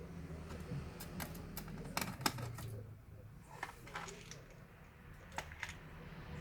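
Irregular small clicks and light knocks of laptop parts and tools being handled during disassembly, in clusters about a second in, around the middle and near the end, over a low steady hum.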